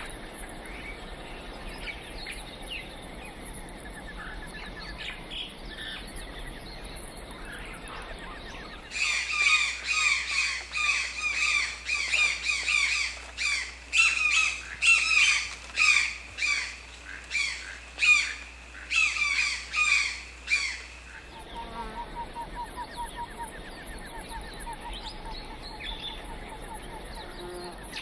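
Bird calls: a loud run of short, repeated calls, a couple a second, that starts and stops abruptly, with fainter chirping birds before and after.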